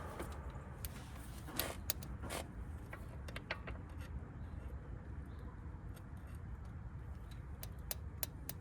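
Scattered light clicks and clinks of small parts or tools being handled, irregular rather than rhythmic, over a steady low rumble.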